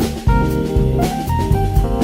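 Background music: an upbeat jazzy tune with drum kit and bass, a steady beat.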